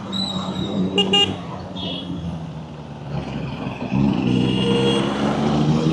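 Motorcycle engine running in slow, dense traffic, with short horn toots from surrounding vehicles in the first two seconds; the engine gets louder about four seconds in as the bike pulls away.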